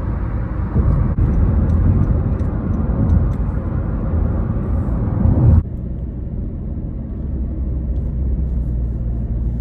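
Road and engine noise of a moving car, heard as a steady low rumble. About halfway through it changes abruptly to a duller, steadier hum.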